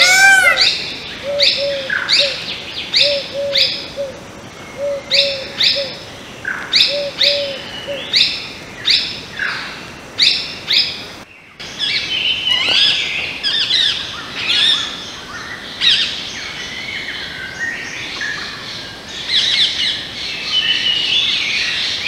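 Wild birds calling: a short call repeated about once a second for the first half, then, after a brief cut, a busier mix of overlapping bird calls.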